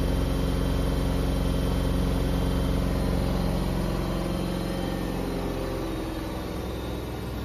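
Washing machine running with a steady motor hum, which falls a little in level and pitch from about halfway through as the drum slows.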